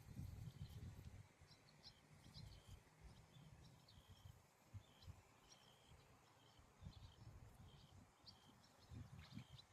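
Faint ambience of small birds chirping, with short high calls repeating every half second or so, over an uneven low rumble that swells at the start and again near the end.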